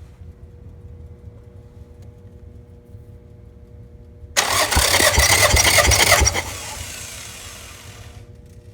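Toyota 3S-GTE turbocharged four-cylinder engine turned over by its starter during a compression test. The loud cranking comes in suddenly a little over four seconds in, with a few low thumps, lasts about two seconds and then fades out over the next two. Before it there is only a low steady hum.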